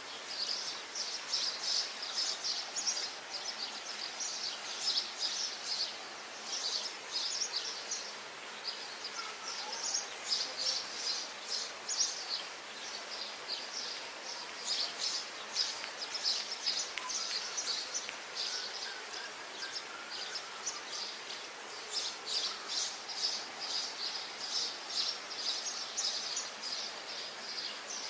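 Many small birds chirping in rapid, high-pitched runs, with a few fainter lower whistles, over a faint steady background hiss.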